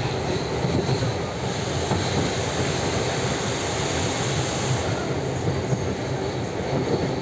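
Passenger train running, with a steady rumble and rattle of its wheels on the rails.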